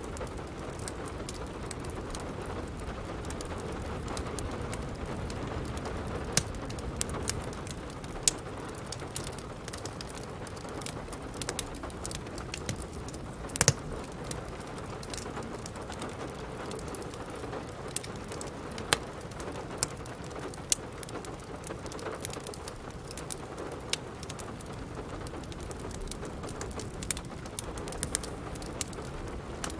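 Steady rain falling, with a wood fire crackling over it in sharp, irregular pops. The loudest pop comes about halfway through.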